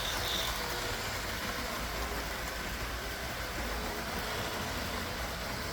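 LEGO 9V electric trains running on the layout's track: the steady whir and rumble of the motors and wheels.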